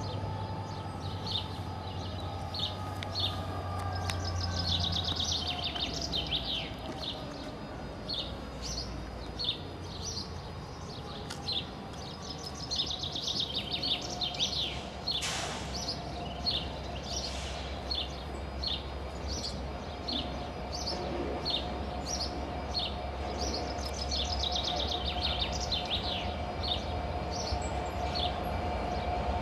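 Small birds chirping in quick, short, repeated calls over a steady low rumble of a train, with a faint whine that slowly falls in pitch during the first several seconds.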